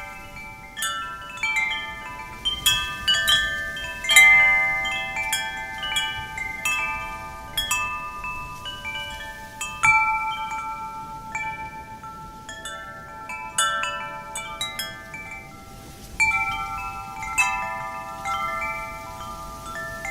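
Metal wind chimes struck irregularly by the wind, clusters of clear ringing tones that overlap and slowly fade, over a faint hiss of wind.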